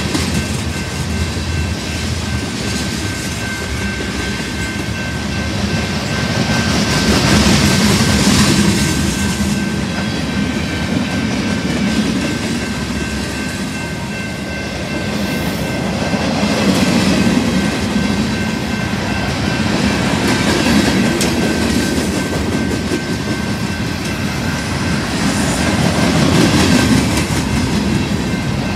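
Freight cars of a BNSF manifest train rolling past on the rails: a continuous rumble and wheel noise that swells and eases every few seconds as the cars go by. A faint thin steady high tone runs underneath.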